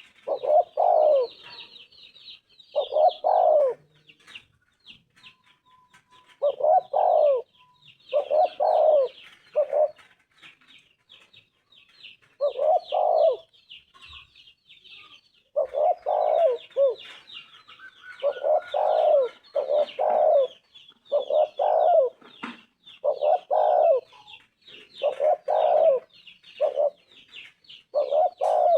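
Spotted dove cooing, a phrase of two or three low coos every two to three seconds. Small birds chirp and twitter steadily in the background.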